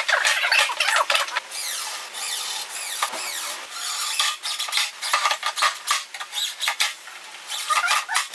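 Irregular clicks and knocks with short squeaks, typical of hand work with wooden and metal parts.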